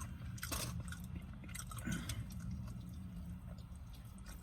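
A person chewing fried chicken: soft wet mouth sounds with a few short clicks, over a steady low hum.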